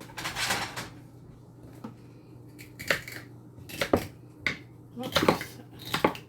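Knife chopping celery on a cutting board: crisp crunching cuts and knocks at an uneven pace, roughly one a second, with a longer crunch near the start.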